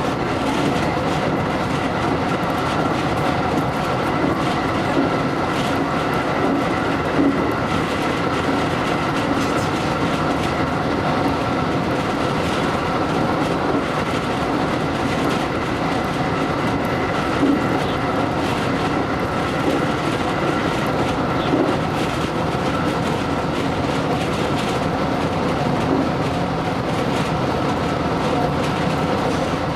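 JR electric train running along the line, heard from inside the car: a steady rumble of wheels on rail with a constant high hum and a few rail-joint clicks.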